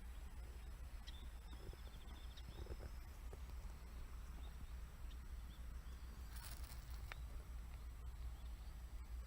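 Faint outdoor ambience on a riverbank: a steady low rumble under a bird's rapid high trill about one and a half seconds in, with a few scattered soft clicks and a brief hiss around six and a half seconds.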